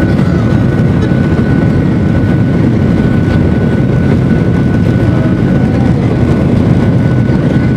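Steady, loud jet-engine noise heard inside the cabin of a Boeing 737-800 powered by CFM56-7B turbofans, with a thin, steady whine riding above the deep noise.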